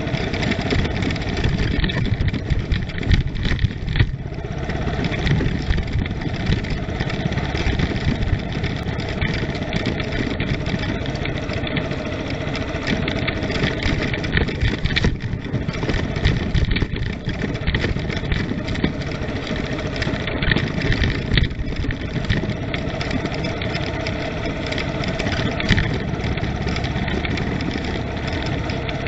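Vehicle engine running with steady road noise while driving, with a few brief louder jolts along the way.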